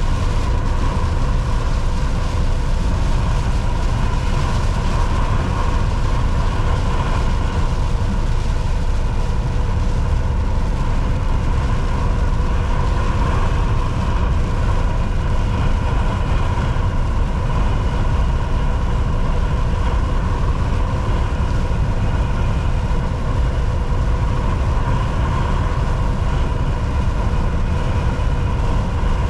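Volvo VNL 760 semi-truck cruising on the highway: a steady engine drone and road noise, with a faint steady whine above it.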